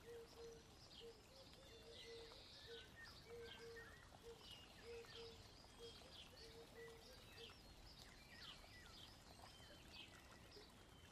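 Near silence, with faint scattered bird chirps in the background.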